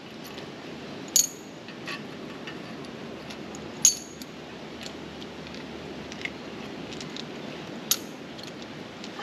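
Steel bolts and nuts clinking against each other as they are picked out of a box by hand: sharp metallic clinks, three loud ones about 1, 4 and 8 seconds in, with lighter ticks between, over a steady background hiss.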